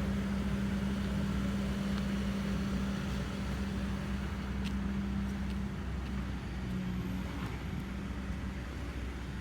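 An engine runs steadily, a low hum with a strong drone that eases slightly about six seconds in.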